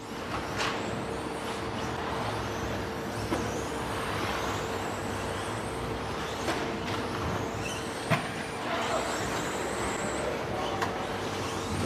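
Electric 1/10-scale 2WD stadium trucks with 13.5-turn brushless motors racing off-road: high-pitched motor whine gliding up and down over a steady noisy bed, with a few sharp knocks, the loudest about eight seconds in.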